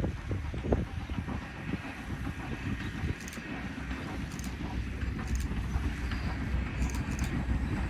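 Low rumble of Strasburg Rail Road steam train No. 90 approaching, growing slowly louder toward the end, with wind on the microphone.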